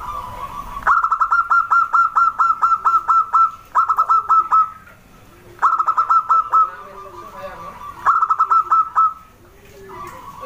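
Zebra dove (perkutut) calling: four bursts of rapid, evenly spaced staccato notes, each burst about a second long, with short pauses between.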